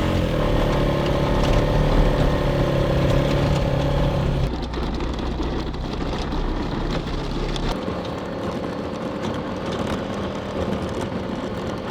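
Snowplow vehicle's engine running steadily while plowing snow, its note changing about four and a half seconds in and its deep hum dropping away near eight seconds.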